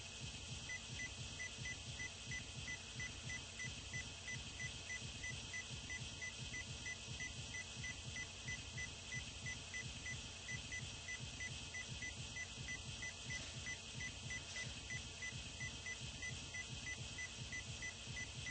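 A short high-pitched beep repeating evenly, about three or four times a second, with a brief pause midway, over a steady hiss and a low uneven rumble.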